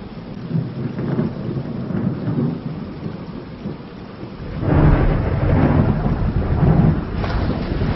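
Thunder rumbling over steady rain, with a louder roll of thunder starting a little past halfway and easing off near the end.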